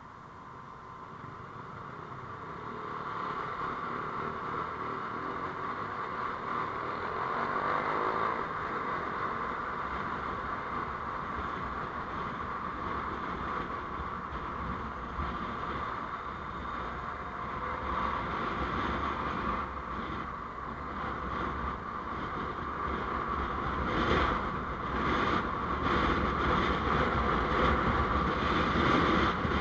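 Road vehicle noise heard from a moving vehicle: engine and tyre/road rumble with wind on the microphone, rising in loudness over the first few seconds and again near the end.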